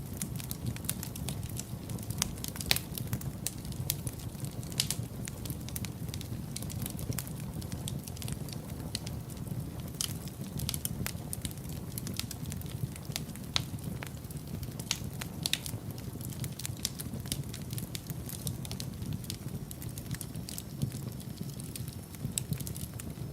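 Wood fire in a fireplace burning with a steady low rumble, crackling and popping irregularly throughout, with a few sharper pops standing out.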